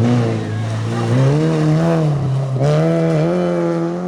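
Rally car engine running hard under throttle, its pitch rising and dipping with the revs, with a step up in pitch about a second in.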